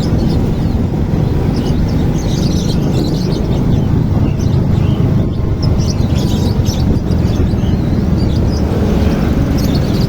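Birds chirping in short, repeated calls over a loud, steady low rumble.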